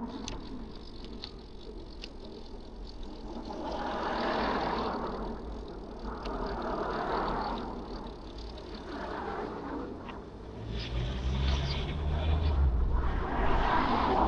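Road traffic passing by: several cars go past one after another, each swelling up and fading, with a vehicle's low engine rumble about eleven seconds in.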